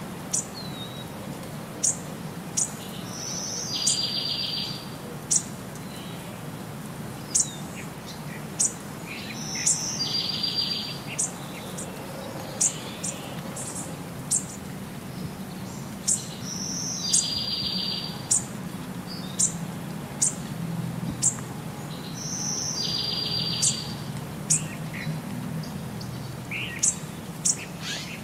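Bird chirps repeating in an even loop: short high chirps again and again, and a buzzy trill about every six and a half seconds, over a steady low hum.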